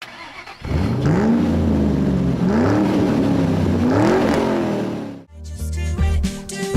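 Car engine revving: three rising and falling sweeps in pitch over about four and a half seconds. Music with a steady beat starts about five seconds in.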